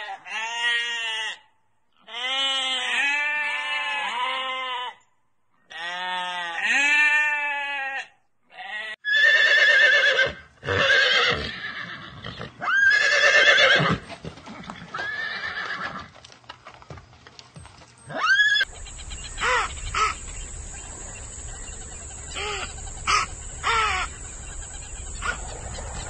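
A sheep bleating several times in a row, then a horse neighing in a series of loud calls. After that comes a quieter stretch of steady hiss with a few short, high calls.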